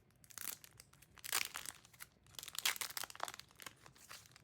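Packaging crinkling and rustling in hand as album contents are handled, in irregular bursts of crackle.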